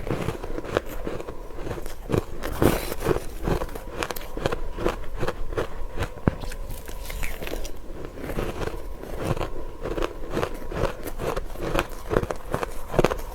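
Close-up biting and chewing of matcha-powdered ice: a continuous run of irregular crisp crunches and crackles, several a second.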